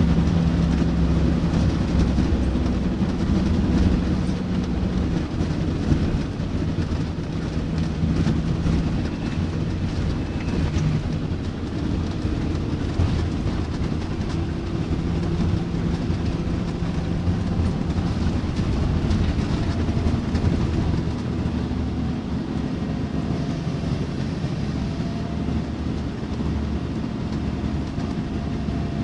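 Scania D9C diesel engine of a Scania K94UB bus running under way, with road and body rumble. The engine's pitch rises and falls several times.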